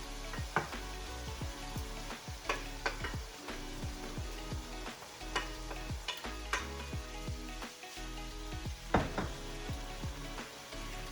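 Diced chicken with pineapple, celery and ginger sizzling in a hot pan while being stirred, with repeated scrapes and knocks of the utensil against the pan, the sharpest about half a second in and near the end.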